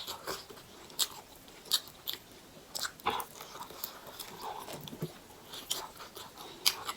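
Close-up mouth sounds of a person eating buff chowmein: chewing with short, sharp wet clicks and smacks about once a second.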